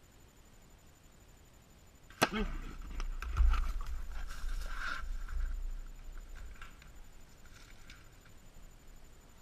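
A bow shot: a sharp snap about two seconds in, then a few seconds of low rumbling that fades away.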